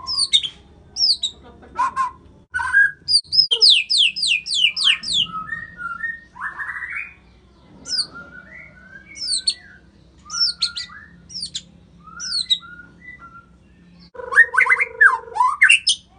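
White-rumped shama (murai batu) singing a varied song of quick downward-sweeping whistles mixed with short lower chirps. A rapid run of several falling whistles comes about four seconds in, and a dense burst of notes comes near the end.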